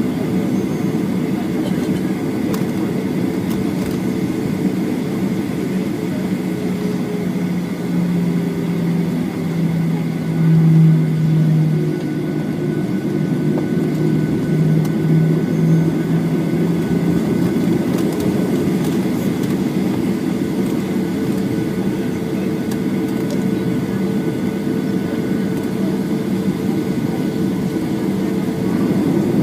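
Boeing 737-8's CFM LEAP-1B jet engines running at low power, heard from inside the cabin as a steady drone with a low hum whose pitch wavers a little around the middle.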